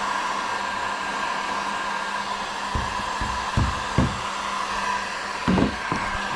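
Heat gun blowing steadily with a faint whine, heating the plastic of a kayak hull to melt on a patch. A few short low knocks from handling come about three and four seconds in and again near the end.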